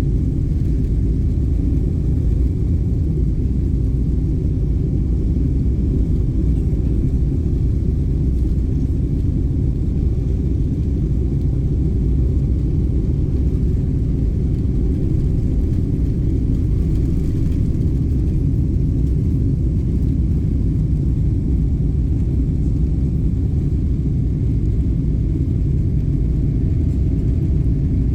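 A jet airliner during its climb after takeoff: a steady low rumble of engines and airflow at an even level.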